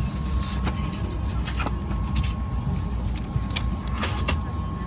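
Steady low rumble of a parked Boeing 757-200's cabin air system during boarding, with a thin steady whine over it and scattered clicks and knocks.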